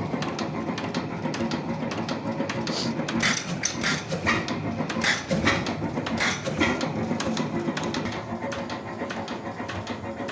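Tangye 5 hp portable oil engine running, a steady mechanical clatter with strong sharp beats at uneven intervals.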